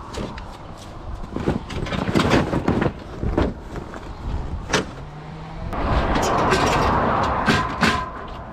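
Car or truck sounds: scattered clunks and knocks, then a stretch of steady rushing noise for a couple of seconds near the end.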